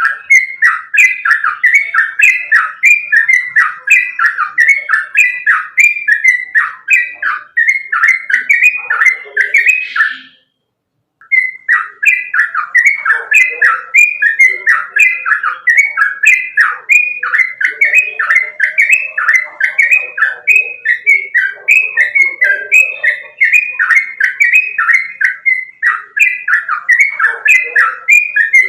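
Yellow-vented bulbul (trucukan) singing in a fast, continuous run of repeated notes, about two a second, cut by a brief silence of about a second partway through.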